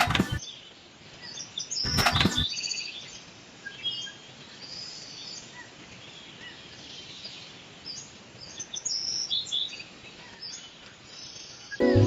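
Small birds chirping and twittering on and off, with two brief loud bursts of noise near the start and about two seconds in.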